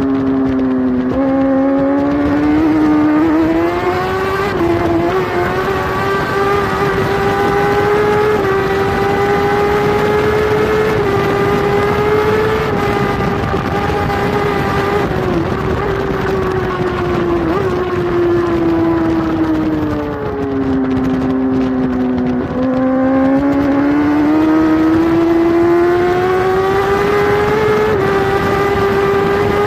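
Kawasaki superbike's inline-four engine at high revs, heard close up on the bike with wind rushing past. The engine note holds high with small steps in pitch, dips for a couple of seconds about two-thirds of the way through, then climbs again.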